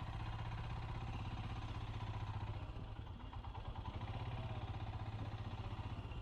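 Motorcycle engine running steadily while riding, a rapid even pulse of firing strokes.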